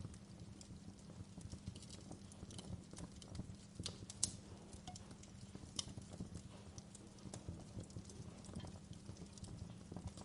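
Campfire burning: a low steady rumble of flames under frequent, irregular crackles and pops, the loudest pop a little over four seconds in.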